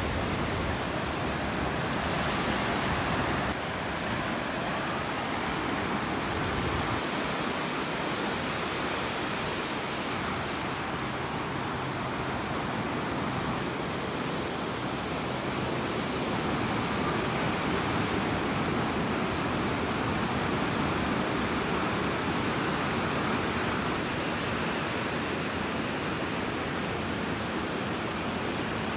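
Ocean surf washing onto a sandy beach, heard as a steady rushing noise with no distinct breaks between waves.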